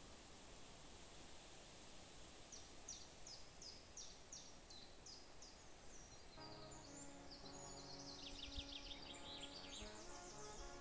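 Faint birdsong: a bird repeating a short, high, falling note about twice a second, breaking into quicker trills later on. Soft music with held notes comes in about six seconds in.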